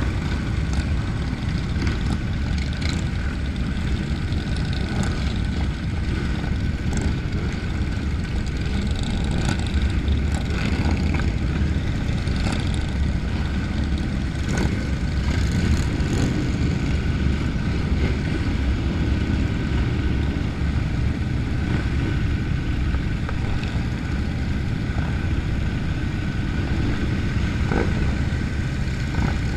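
Motorcycle engine running: a steady low rumble with no break.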